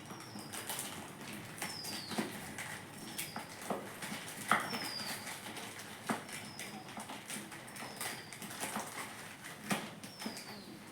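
A bird repeats a short, high, falling chirp every second or two, with scattered clicks and knocks of handling in between.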